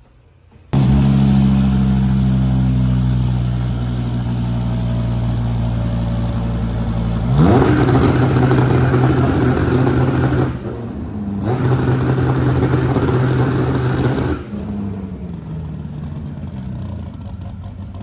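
Dodge Viper V10 idling, then revved up hard and held at high revs for about three seconds, dropping briefly and held high again before it falls back to idle.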